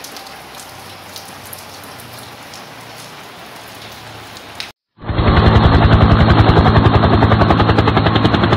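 Steady hiss of rain for about four and a half seconds; after a brief gap, a much louder intro sound effect comes in, throbbing rapidly at about ten beats a second.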